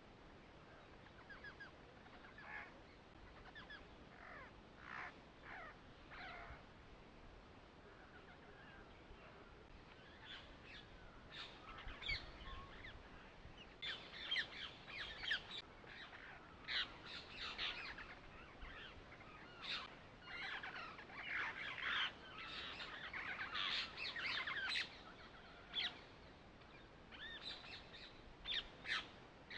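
Small birds chirping: many short, quick calls, sparse at first and coming much thicker about ten seconds in.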